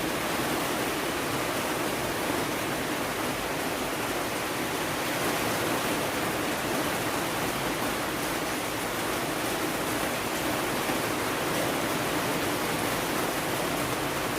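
Steady, even rainfall, a dense hiss of falling rain without distinct drops or thunder.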